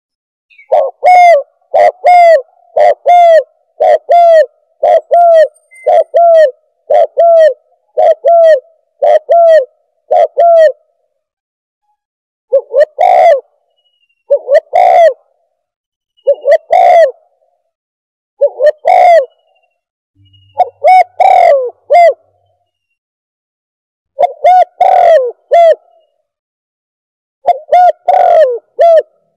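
Spotted dove (tekukur) cooing loudly: a quick run of short coos about one a second for the first ten seconds, then coos in twos and threes with pauses between. It is a recorded bird call played as a hunting lure.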